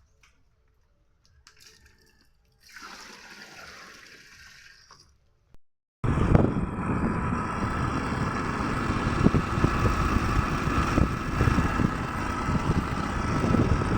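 Loud, steady rushing of water that cuts in abruptly about six seconds in, after a few seconds of much softer noise.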